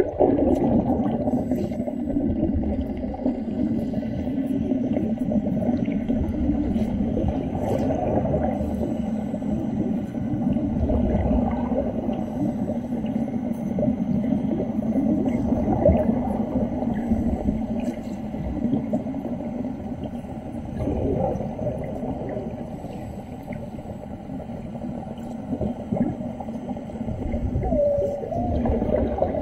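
Muffled underwater bubbling and gurgling with a wavering hum, heard through water.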